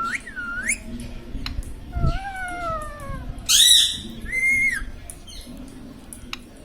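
Pet parrot calling: a swooping whistle, then a long falling call, a loud harsh squawk about three and a half seconds in, and a shorter arched call after it.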